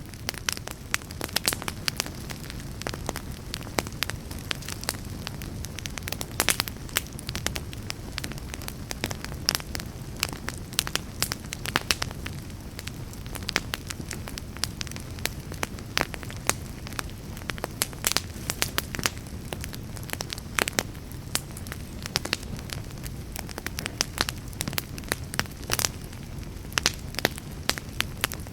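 Wood fire burning in a fireplace, with frequent irregular crackles and pops over a low steady rumble of the flames.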